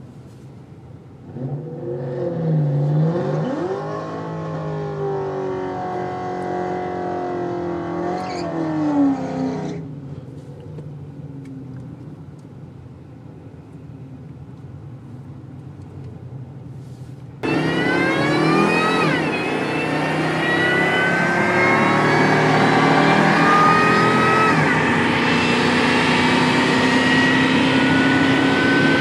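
Ford Lightning pickup's V8 engine revving, its pitch rising and falling, then settling lower. After an abrupt cut about 17 seconds in, it is louder and accelerating, with the engine pitch climbing steadily.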